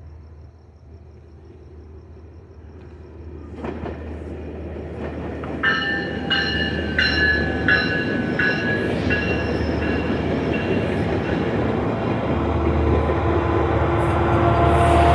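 Metrolink commuter train approaching, its rumble growing steadily louder. A bell rings in even strokes, a little over one a second, from about five to ten seconds in.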